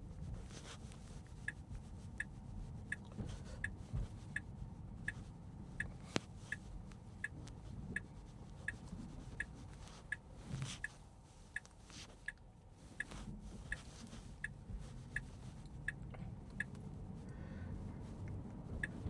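Tesla Model 3 turn signal ticking in the cabin, a short high tick about every 0.7 seconds, over low road rumble as the car drives; the ticking stops near the end.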